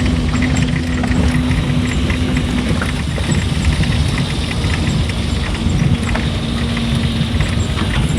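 Engine of a moving road vehicle running at a steady pace, with a low rumble, a steady hum that fades out about three seconds in and returns near the end, and many small rattles and clicks.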